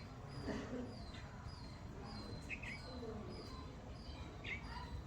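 Small birds chirping: short high chirps every second or two, with fainter higher notes between them, over a steady low background noise.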